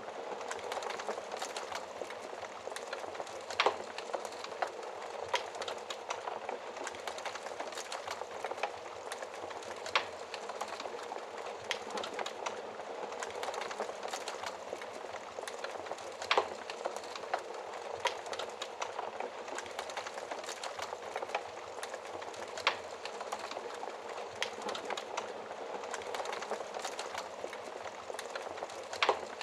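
Wood fire burning in a fireplace: a steady soft crackle with a sharp louder pop every few seconds.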